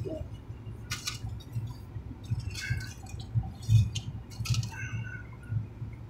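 Close-miked eating sounds: someone chewing a torta sandwich, with several sharp mouth smacks over a low steady rumble.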